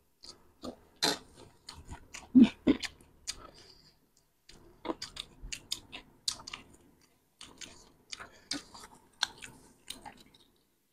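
A person chewing crunchy Nepali street food, panipuri and chatpate, close to the microphone. Irregular crisp crunches and wet mouth clicks come with pauses between bites.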